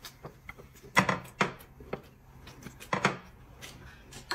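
Chopsticks clicking and knocking against ceramic dishes in a handful of sharp, separate taps, the loudest about a second in and a close pair about three seconds in.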